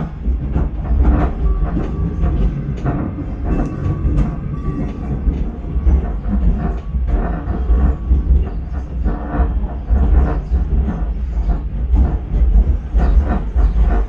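Chiemsee-Bahn metre-gauge steam tram train rolling along the track: a steady low rumble with frequent irregular clacks and rattles from the wheels and carriages.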